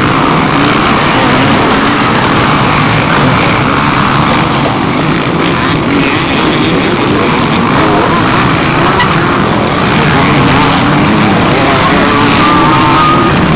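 Several MX1 motocross bikes racing, their engines revving up and down in a constant loud din.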